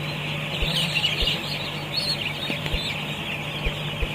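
A dense chorus of week-old broiler chicks peeping together, with a steady low hum underneath and a few soft low thumps.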